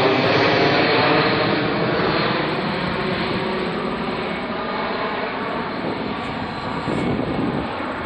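Jet airliner's engines roaring past, loudest at first and then fading steadily as the aircraft moves away.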